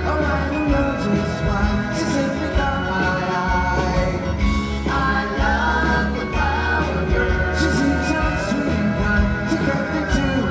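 Live pop-rock band performing a song, with singing over guitars and a steady bass.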